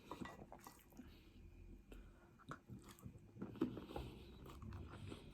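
A person chewing and biting into spicy noodles, with irregular small clicks and soft mouth sounds; the loudest click comes about three and a half seconds in.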